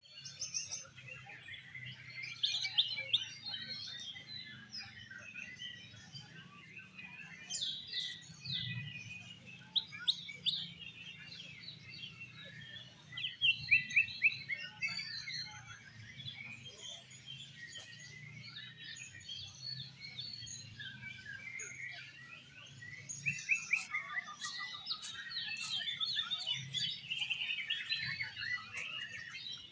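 Several oriental magpie-robins (kacer) singing at once: fast, overlapping chirps, whistles and trills with louder flurries, over a steady low hum.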